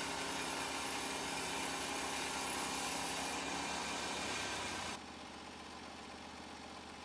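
Norwood portable band sawmill's engine running steadily; about five seconds in it cuts suddenly to a quieter hum.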